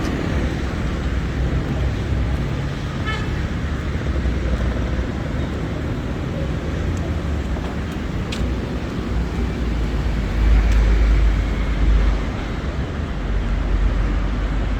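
City street traffic: a steady rumble of passing cars and other motor vehicles, swelling louder for a second or so about ten seconds in.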